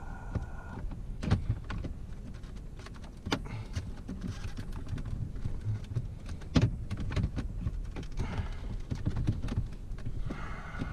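Scattered sharp clicks and light rattling from hands handling and fitting plastic instrument-cluster parts, over a steady low rumble.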